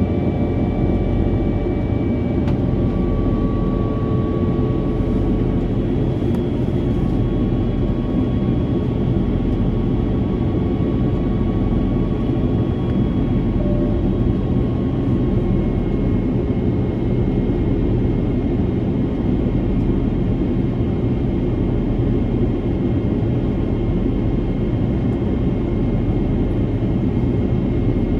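Airbus A330-343's Rolls-Royce Trent 700 engines and rushing airflow heard inside the cabin during the climb after takeoff: a steady, deep, unbroken noise with a few faint steady tones above it.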